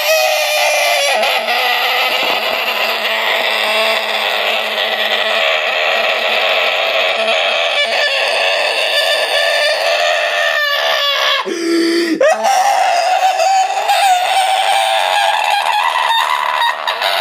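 Chickens clucking and squawking loudly without a break, with a short change in the sound about twelve seconds in.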